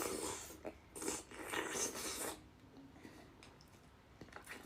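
Soft eating noises: a bite of kou shui ji, cold chicken in chili-oil sauce, taken and chewed, with a few small clicks. It falls almost silent about two and a half seconds in.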